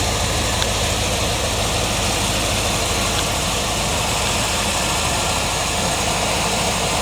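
1980 Corvette's rebuilt 350 small-block V8 idling steadily, a low, even running sound with no change in speed.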